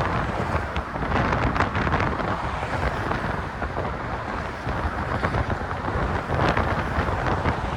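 Wind buffeting the phone's microphone in uneven gusts, a rumbling rush with no clear pitch.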